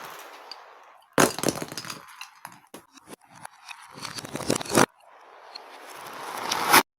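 Beads clattering and clinking, played backwards. A rattling rush starts about a second in and fades into scattered clicks, and near the end a rising swell of clatter cuts off abruptly.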